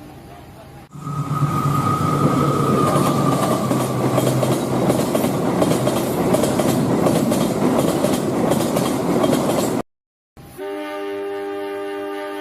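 Train running with a loud rumble and rattle, a high whine fading out over the first few seconds. After a sudden brief cutout, a steady multi-tone train horn sounds near the end.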